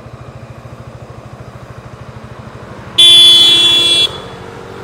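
A motorcycle engine idling with an even pulse, cut across about three seconds in by a loud vehicle horn blast lasting about a second.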